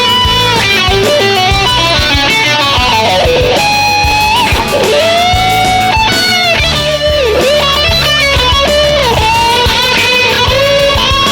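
Electric guitar played through a VOX Night Train NT50 valve amplifier, a lead melody of sustained notes with string bends and vibrato, over a steady beat and bass line.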